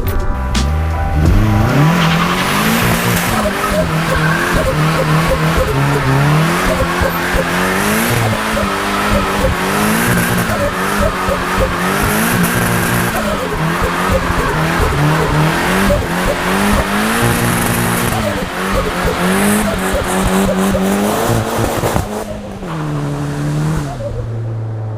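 Nissan 200SX S13's turbocharged CA18DET four-cylinder engine revving up and falling back again and again while the car is drifted, with tyres sliding and squealing. Near the end the engine settles to a lower steady note.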